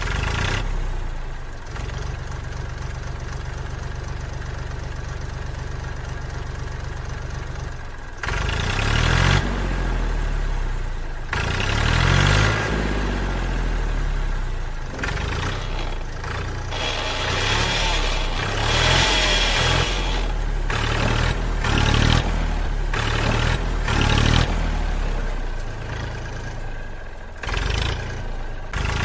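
Tractor engine sound, idling steadily for about the first eight seconds, then revving up and falling back again and again.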